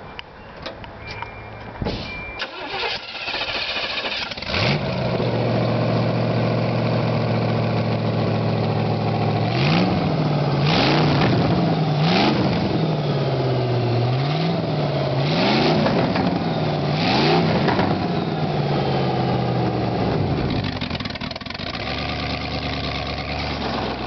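Chevrolet 305 V8 exhausting through open vertical headers: cranked on the starter, catching about four and a half seconds in and idling loudly. It is then revved up and dropped back several times before settling back to idle.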